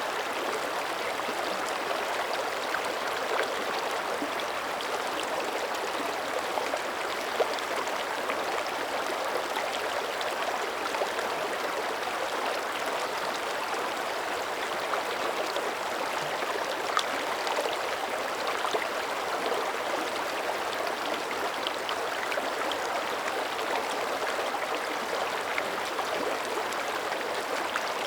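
Mountain creek flowing steadily over rocks, a constant rush of water with small splashes and gurgles scattered through it.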